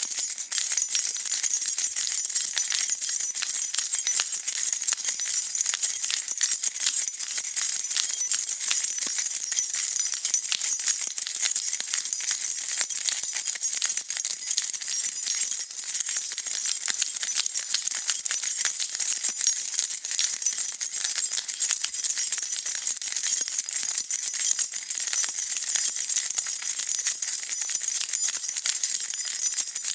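A bunch of metal keys shaken continuously, a dense, steady jingling without pauses.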